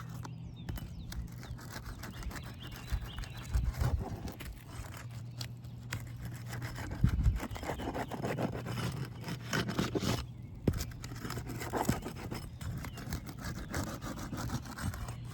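A roof snake scraping and rubbing under asphalt composition shingles, breaking their seal strips, with irregular scrapes and short clicks.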